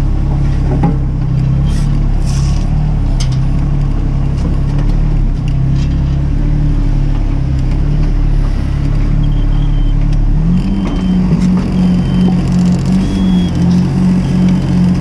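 Mini excavator's diesel engine running steadily. About ten seconds in, the engine speed rises and holds at the higher pitch, with the loudness pulsing.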